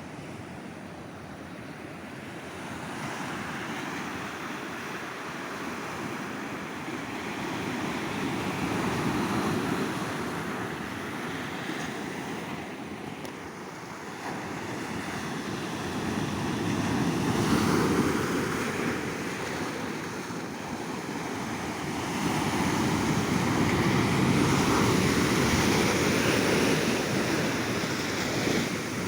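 Ocean waves breaking and washing up the beach, the surf rising and falling in swells, loudest around a third of the way in, just past halfway, and through the last few seconds, with some wind.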